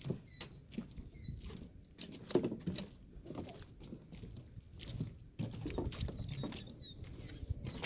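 Irregular crunching steps on a dirt trail, with short high chirps from small birds now and then.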